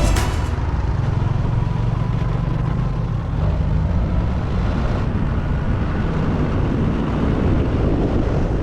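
Motorbike running steadily on the move: a low, even engine hum under a haze of road and wind noise.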